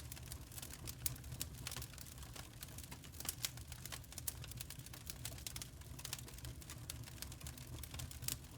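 Crackling firewood: dense, irregular small pops and clicks over a low, steady rumble.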